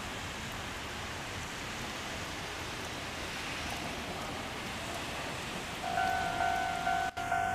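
Steady hiss of light rain. About six seconds in, a Japanese level-crossing warning bell starts ringing: a repeating two-note electronic clang, about two strokes a second.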